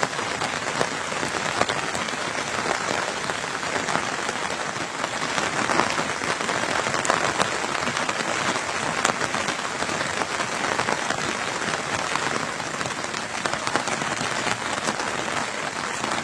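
Steady rain falling, with many individual drops striking close by as small sharp ticks.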